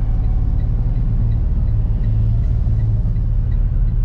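Ford F-150 pickup driving, heard from inside the cab: a steady low rumble of engine and road noise.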